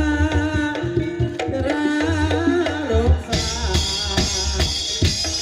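Banyumasan gamelan music accompanying ebeg dance: kendang hand drums beating deep, frequent strokes under pitched melodic instruments. A brighter, shimmering high layer joins about three seconds in.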